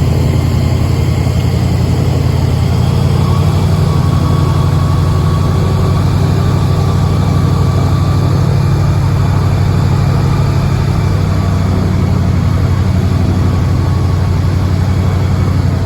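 Boat engine running steadily at an even speed, with a deep, constant hum.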